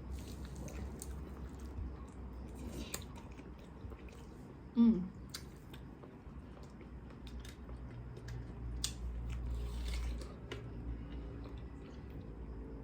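Close-miked chewing and biting of food, with scattered small crisp clicks and crunches. About five seconds in comes one short, loud vocal sound that falls in pitch.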